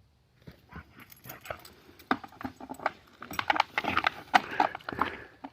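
A husky moving about excitedly: irregular thumps and jangling clicks, growing busier and louder after about two seconds, with a few short vocal sounds among them.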